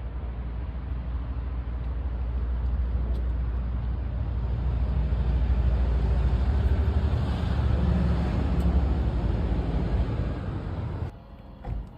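A motor vehicle engine's low, steady rumble that grows louder toward the middle and stops abruptly near the end.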